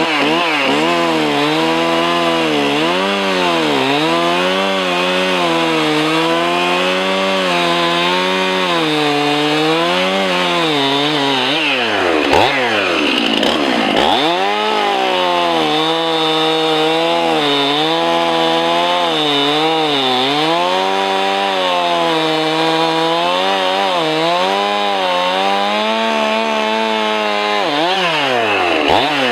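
Chainsaw cutting into a green poplar trunk: the engine pitch repeatedly sags as the chain bites and recovers, drops right off about twelve seconds in and revs back up, and drops again near the end.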